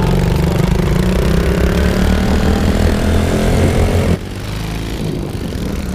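Pit bike's small single-cylinder four-stroke engine running under throttle, its pitch climbing gradually, then dropping suddenly to a quieter running note about four seconds in.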